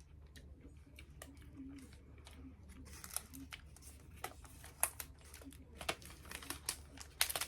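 Plastic snack wrapper crinkling as it is handled: sparse crackles at first, growing into dense bursts of crinkling from about three seconds in.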